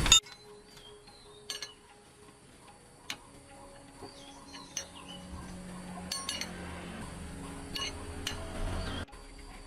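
Scattered light metallic clinks and taps, a dozen or so irregular strikes, like hand tools and wheel-nut hardware being handled during a truck tire change.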